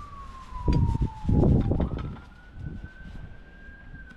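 Siren wailing, one tone slowly rising and falling about every three seconds. Loud thumps and rustling about a second in.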